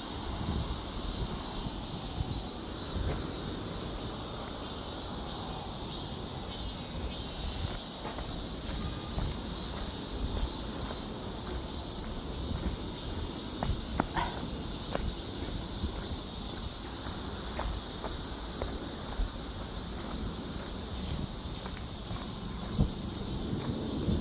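Forest ambience: a steady high insect drone, with scattered light clicks and rustles and a low rumble of wind on the microphone.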